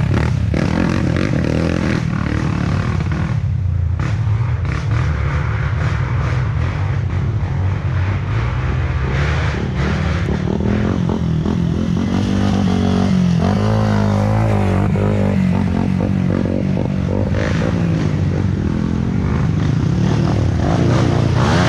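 Off-road trail motorcycle engines running and revving, loud and continuous, the revs rising and falling repeatedly.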